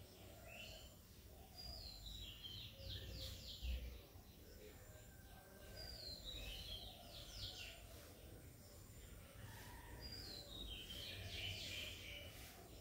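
Faint bird song: the same short, chirpy, falling phrase sung three times, about four seconds apart, with a soft thump a little under four seconds in.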